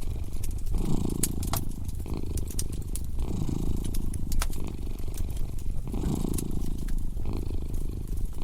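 A cat purring, its low hum swelling and fading in a slow, even rhythm. Under it a wood fire crackles with scattered sharp pops.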